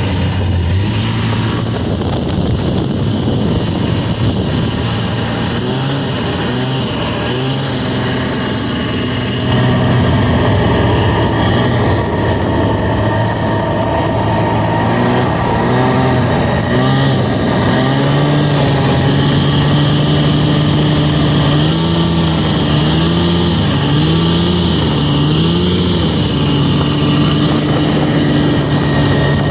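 1979 Arctic Cat Pantera snowmobile's two-stroke engine running under way. It gets louder about a third of the way in, and near the end its pitch rises and falls a few times as the throttle is worked.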